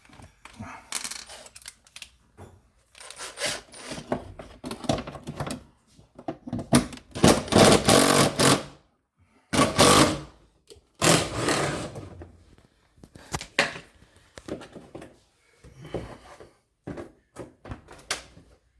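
Hand tools and plastic trim clips being worked on a car's front bumper: irregular clicks, knocks and scraping, busiest in the middle.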